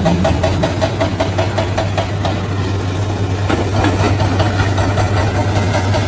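Bulldozer's diesel engine running steadily with a low hum. A rapid, even pulsing of about seven strokes a second in the first couple of seconds turns rougher and less regular later on.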